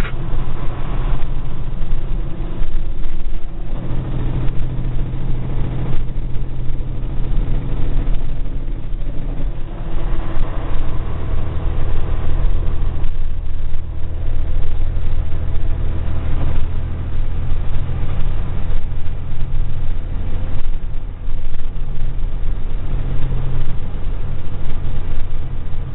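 A log truck's diesel engine running under load, its pitch stepping up and down several times as it works along.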